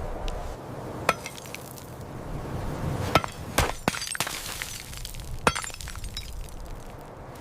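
Several sharp knocks and clinks of hard objects struck together, spaced irregularly, each with a brief ring.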